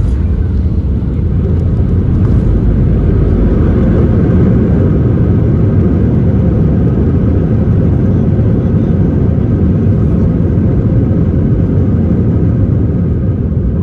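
Airbus A319 heard from inside the cabin: a loud, steady rumble of engines and airframe, with a faint engine whine above it, as the airliner lands.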